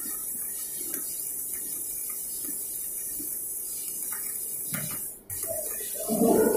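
Stick (shielded metal arc) welding: the electrode's arc giving a steady high hiss with a few faint ticks, cutting out briefly about five seconds in.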